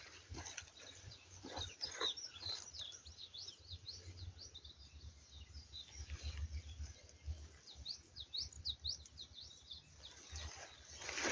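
Small birds chirping: quick, short high notes in several spells, over a faint low rumble.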